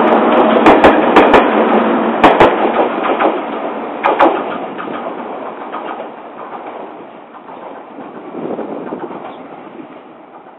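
JR Kyushu 883 series 'Sonic' electric train pulling out and away, its wheels clacking in pairs over the rail joints. The clatter and running noise fade steadily as the last car passes and recedes down the line.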